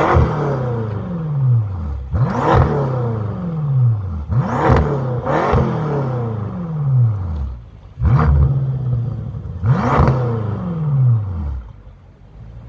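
BMW M5 F10's twin-turbo 4.4-litre V8 revved repeatedly while the car stands still: a series of sharp blips roughly every two seconds, each rising quickly and falling slowly back toward idle. Near the end it settles to a quieter idle.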